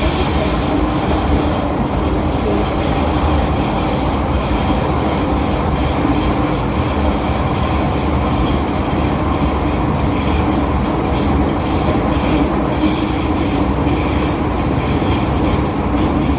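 A first-generation MTR M-Train (1979 Metro Cammell CM Stock) running along the line, heard from inside the car: a steady rumble of wheels on rail under a constant hum from the traction equipment.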